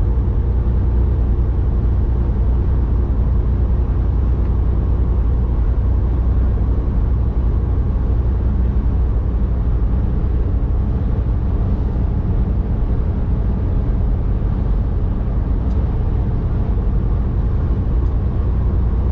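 Volvo semi truck's diesel engine running steadily, a low, unchanging drone heard from inside the cab.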